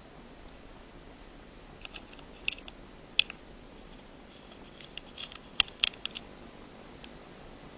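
Light, sharp clicks and taps of small tools and parts being handled while taking apart an iPhone 5: a few scattered ones, then a quick cluster about five to six seconds in.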